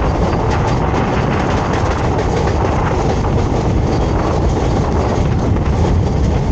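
Indian Railways express train running on the rails, heard from on board: a steady loud rumble with repeated clacking of the wheels over rail joints.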